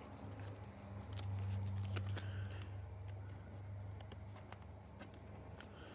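Faint scattered clicks and crinkles of a trading-card pack and cards being handled and worked open, over a low steady hum that grows a little louder for a couple of seconds about a second in.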